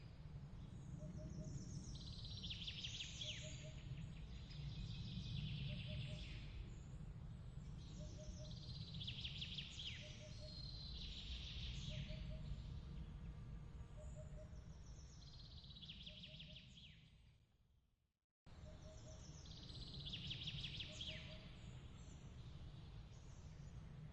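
Ambience bed of birds chirping in repeated bursts of quick trills over a steady low rumble, with a faint pip repeating about every second and a half. About three quarters of the way through, it fades out to silence and then restarts abruptly: the loop point of the ambience track.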